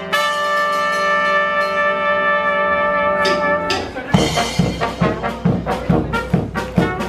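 Live brass band of trumpets and trombones holding a long sustained chord, then about four seconds in breaking into a punchy rhythmic passage over a steady beat.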